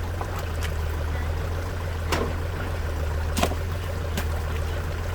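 A tractor's engine runs steadily with a low, even hum, and about four sharp knocks come at intervals over it.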